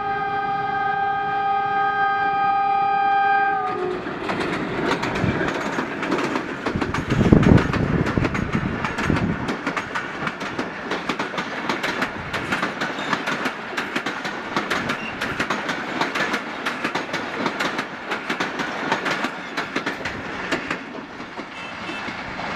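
Locomotive horn held as one long steady chord that cuts off a few seconds in. Then the train passes close by: the locomotive loudest first, then passenger coaches with a quick, steady clickety-clack of wheels over rail joints, easing off slightly near the end.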